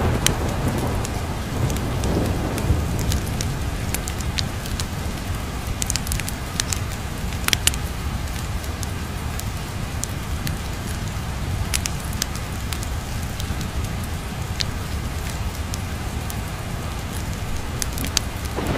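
Steady rain with a wood fire crackling: scattered sharp pops and snaps over an even hiss of rain and a low rumble. The tail of a thunder roll fades over the first couple of seconds.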